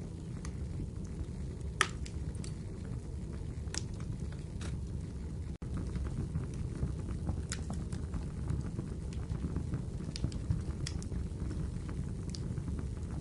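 Wood fire burning in a fireplace: a steady low rumble of flames with scattered sharp crackles and pops every second or two. There is a momentary dropout about halfway through.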